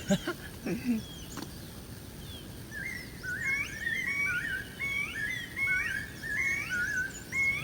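Birds calling over and over: short notes that step up in pitch, about three a second, from about three seconds in, with fainter high chirps above them. A few light clicks or taps near the start.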